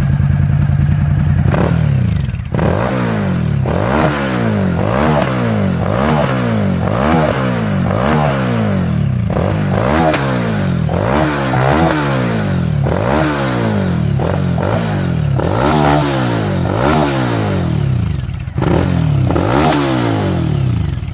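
Kawasaki KLV1000 V-twin motorcycle engine revved over and over, the throttle blipped roughly once a second, with sharp pops and backfires from the exhaust as gasoline poured into the exhaust system ignites.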